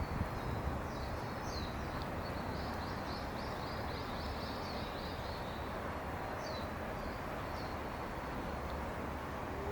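Small birds chirping over a steady outdoor background noise, with a quick run of chirps about three to four seconds in.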